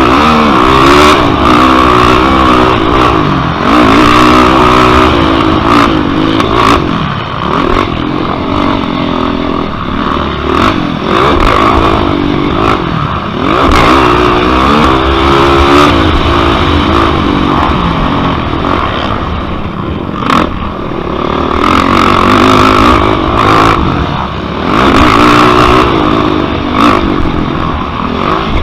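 Yamaha YFZ quad's single-cylinder four-stroke engine being raced, revving up and falling off again and again, with scattered knocks and rattles.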